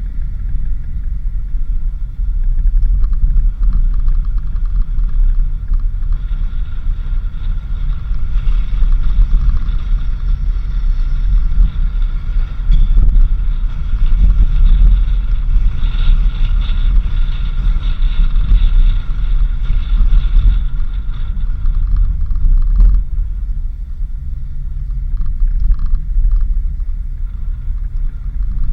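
Vehicle driving along a dirt road: a loud, steady low rumble of engine and tyres.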